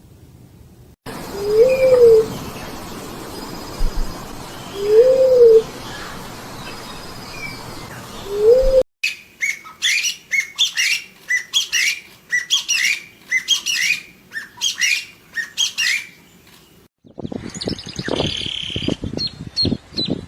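Bird calls in three separate snippets. First comes a low hooting call, three times about three seconds apart, over a hissy background. Then a run of quick falling whistled notes, and near the end a burst of rapid clicks and rustling.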